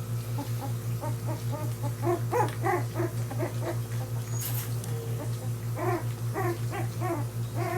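Portuguese Water Dog puppies whimpering and squeaking in runs of short, high little calls, over a steady low hum.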